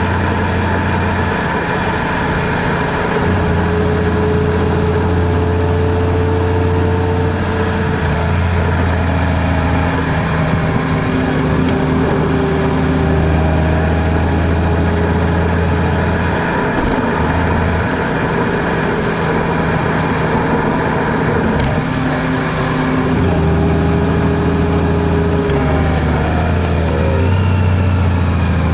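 Car engine and road noise heard from inside a moving vehicle, steady throughout, with the engine note shifting up and down as the speed changes.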